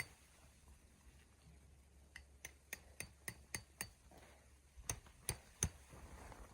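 A quick run of light, sharp taps, about three or four a second, followed near the end by three louder knocks.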